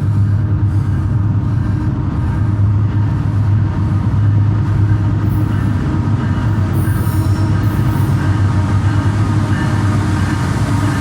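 A train passing close by: a loud, steady, heavy rumble with thin squealing tones over it.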